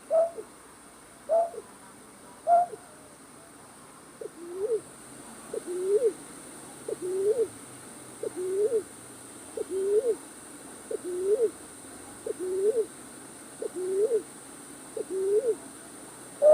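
Calls of a night bird, played as a trapping lure: three short hoots about a second apart, then from about four seconds a steady series of lower, upward-hooked calls, roughly one and a half a second.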